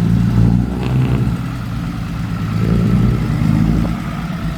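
Diesel engines of six-wheel dump trucks driving by, a low drone that swells twice and eases off between.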